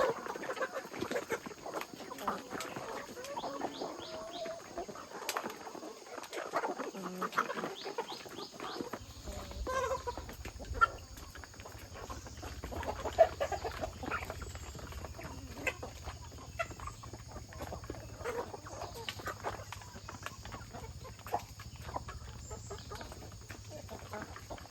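Chickens clucking on and off, with many short sharp clicks and knocks among the calls. About a third of the way in a steady low hum starts and carries on.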